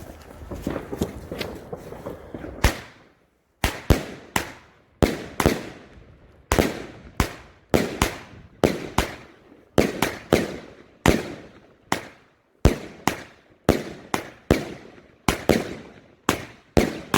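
A hiss with faint crackling for about the first two and a half seconds, then a salute battery firing: a run of sharp, loud bangs, often in quick pairs, about two a second, each shot's salute going off with a short echoing tail.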